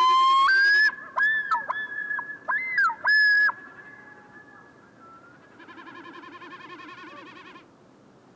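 Great northern divers (common loons) calling: loud, long, pure notes that jump abruptly up and down in pitch during the first three and a half seconds, then a fainter quavering call near the end.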